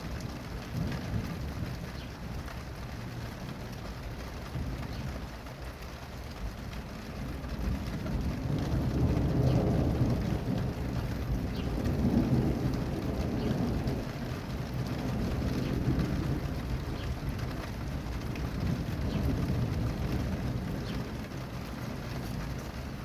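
Steady rain with rolling thunder: a low rumble builds about a third of the way in, peaks twice, and slowly fades.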